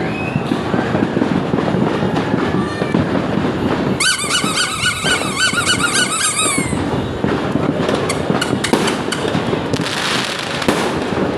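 Fireworks and firecrackers going off in a dense, continuous crackle of pops and bangs, with sharper reports clustering in the later seconds. About four seconds in, a high wavering whistle-like tone sounds over the crackle for nearly three seconds.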